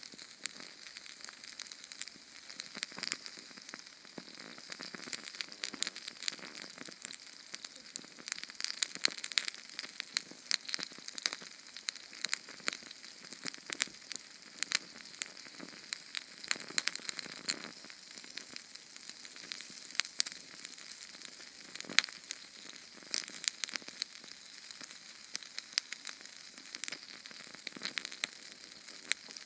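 Small Sterno gel-fuel flame burning with a steady sizzling hiss and many quick, irregular crackles and pops.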